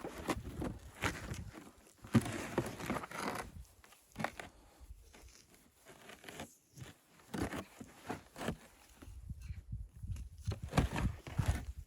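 Irregular crunching and rustling footsteps, in uneven clusters with a quieter stretch a little past the middle.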